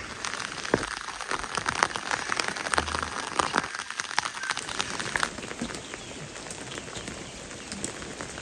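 Heavy rain falling, with a steady hiss and many irregular sharp taps of drops striking close by.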